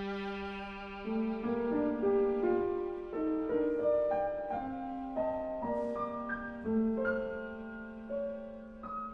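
Viola and piano playing a classical piece together, a melody of held bowed notes over piano notes that change about every half second.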